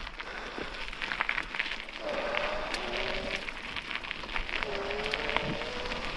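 Bicycle tyres rolling over a gravel towpath, a steady crunching hiss full of small ticks and crackles. A thin whine comes in about two seconds in, breaks off, and returns slowly rising in pitch.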